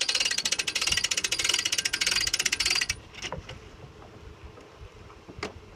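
Boat trailer's hand winch ratcheting as the bow strap is cranked in, a rapid even clicking of the pawl that stops abruptly about three seconds in.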